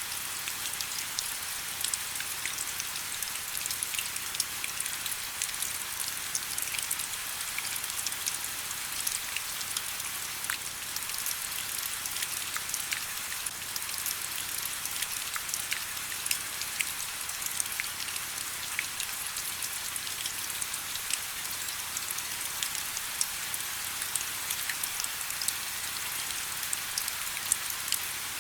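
Steady rain: an even hiss with many sharp little drop impacts scattered through it.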